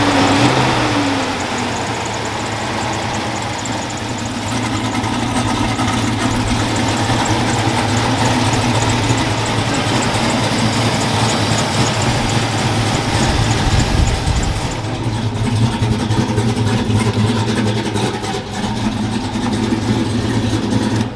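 Truck engine running loud and steady at idle, with a short rise in pitch right at the start. It runs without the cylinder 7 misfire, which a replaced bad injector has cured.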